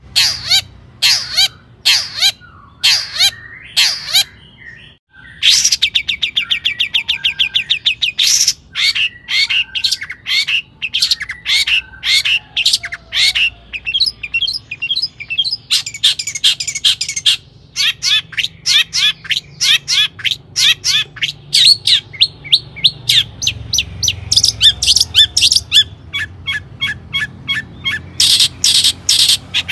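Long-tailed shrike singing: fast runs of sharp, repeated chattering notes and quick trills, with brief pauses about five seconds in and again past the middle.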